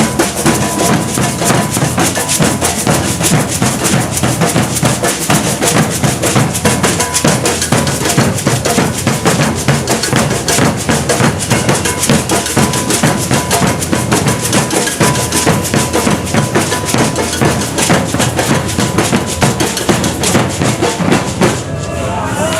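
Maracatu de baque virado percussion ensemble playing a dense, driving rhythm: alfaia bass drums, snare-like caixas and the clanging iron gonguê bell. The drumming stops about a second before the end.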